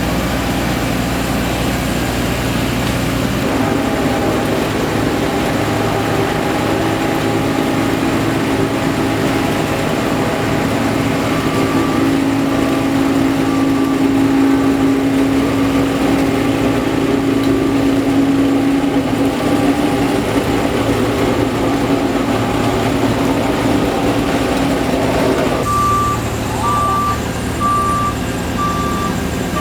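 Steady engine drone of heavy road-paving machinery at work, with a reversing alarm beeping in an even on-off rhythm, faint partway through and loud near the end.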